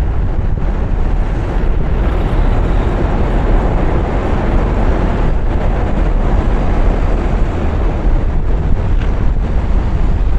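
Car driving on a rain-wet road: a steady hiss of tyres on wet pavement over a low road rumble, with wind noise on the microphone.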